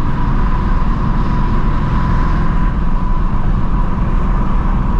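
2024 Ford Mustang GT's 5.0-litre V8 cruising at a steady speed, a constant low exhaust rumble with road noise and no revving, plus a faint steady whine.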